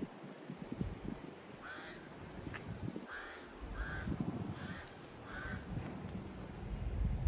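Birds calling: five short calls in a row, starting about a second and a half in, most of them under a second apart.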